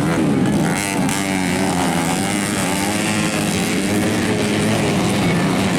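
Several modified underbone racing motorcycles of up to 250 cc running hard together, their engines revving up and down over one another.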